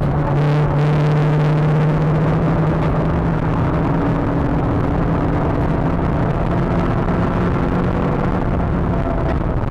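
Renault Clio 182 Trophy's 2.0-litre four-cylinder engine running hard at a near-steady pitch, heard from inside the cabin over road and wind noise.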